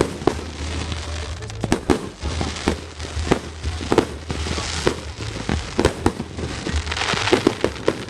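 Fireworks going off: an irregular string of sharp bangs from bursting shells, with crackling hiss swelling about four and a half seconds in and again near the end.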